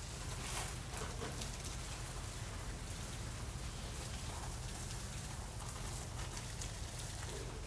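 Water from a garden hose spraying steadily onto plants and soil.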